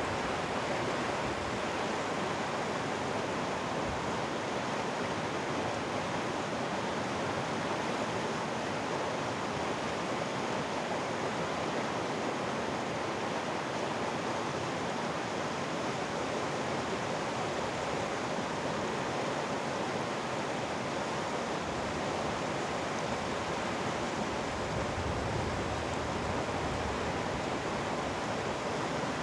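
Mountain valley stream water running with a steady, even rush.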